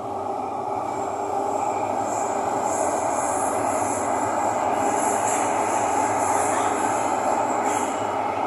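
Thomson-East Coast Line MRT train running between stations, heard inside the carriage: a steady rumble, with a high-pitched squeal that comes in about a second in, wavers, and stops near the end.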